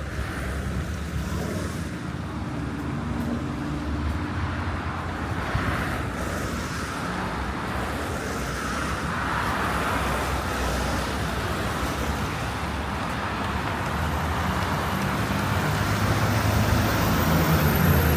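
City traffic on snow-covered roads: steady tyre and engine noise of passing cars, growing louder in the last few seconds as a vehicle comes close, with a thin high whine near the end.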